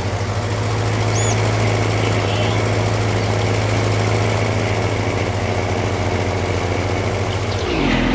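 John Deere garden tractor engine running steadily while mowing, with a brief dip and recovery in pitch near the end.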